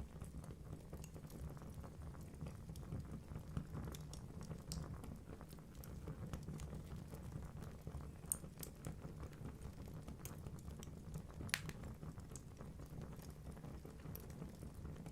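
Wood fire burning in a fireplace: a low steady rumble of flames with scattered sharp crackles and pops from the burning logs, one pop standing out about two-thirds of the way through.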